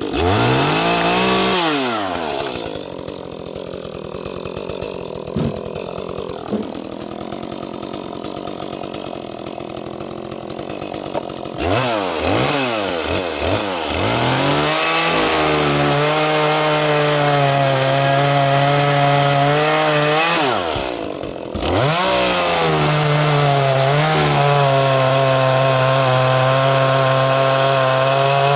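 Small 30cc Echo two-stroke chainsaw dropping from high revs to idle, idling for about ten seconds, then blipped a few times and held at full throttle while cutting wood. It dips off throttle briefly about two-thirds of the way through, then runs at full throttle again.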